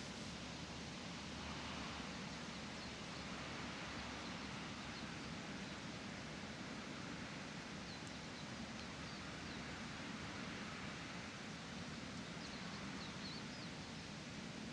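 Faint outdoor park ambience: a steady low hiss and hum, with a few faint, high, short bird chirps scattered through it and a small cluster near the end.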